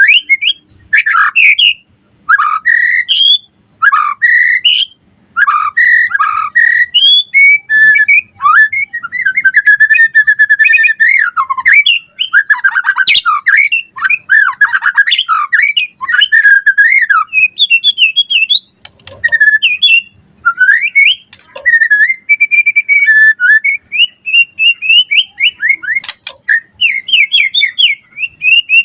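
White-rumped shama singing: a long, varied run of loud whistled phrases that glide up and down, broken by rapid trills and short pauses.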